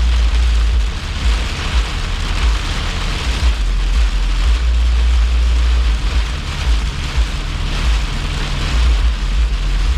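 Steady low rumble with an even hiss, as of a vehicle running.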